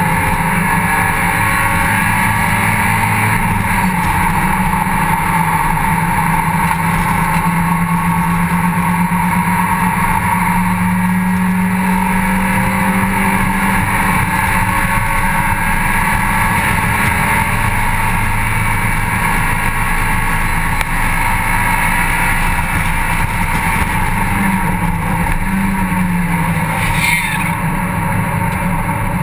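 Mazda MX-5 cup race car's four-cylinder engine running hard on track, heard from inside the open cockpit along with wind and road noise. The engine note holds mostly steady, shifting in pitch a few times, with a brief sharp sound near the end.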